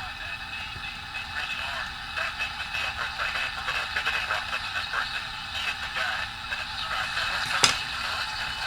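1954 General Electric C407 tube radio playing an AM station through its small speaker: thin, tinny broadcast audio with hiss, no bass, and a faint steady hum. A single sharp click near the end.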